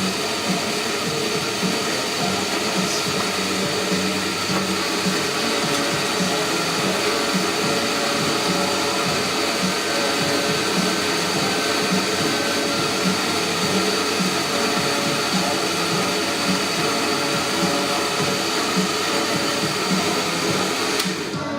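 Espresso machine's built-in burr grinder grinding coffee beans into the portafilter, a loud steady whirr that stops just before the end.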